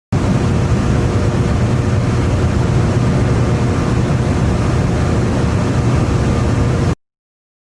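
Heavy machinery running steadily: a deep, even rumble with a faint steady hum above it, cutting in and out abruptly.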